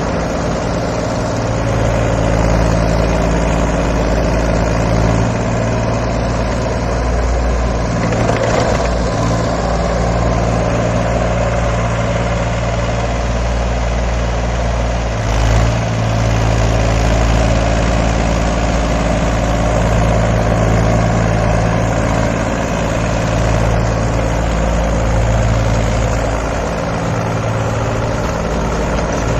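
Mahindra 275 XP Plus tractor's three-cylinder diesel engine running steadily, with a short change in its sound about halfway through.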